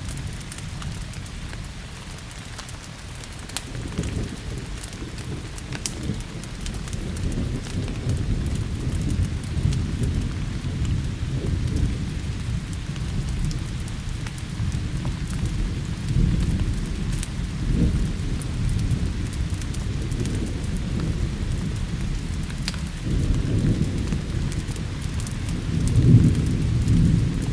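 Thunder rumbling and rolling under steady rain, swelling several times, with the loudest peal near the end. Scattered sharp crackles and pops of a burning wood fire sound over it.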